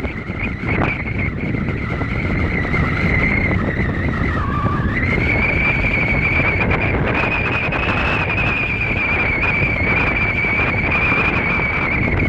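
Wind rushing over the microphone of a camera riding along on a road bike, with a steady high whistling whine over it. The whine dips in pitch about four seconds in, then climbs back and holds.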